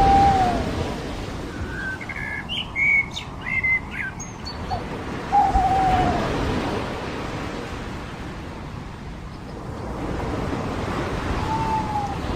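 Surf washing on a beach as a steady hiss that swells and ebbs, with a bird's short falling call three times, about every five or six seconds, and a quick run of higher chirps from another bird a couple of seconds in.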